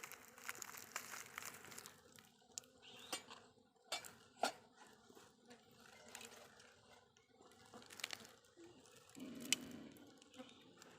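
Faint scattered clicks and small scrapes of hands working in an opened stingless bee nest, lifting out brood cells.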